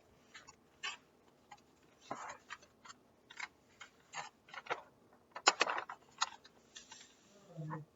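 A notebook being handled and opened: a string of irregular small clicks and paper rustles, busiest about five and a half seconds in.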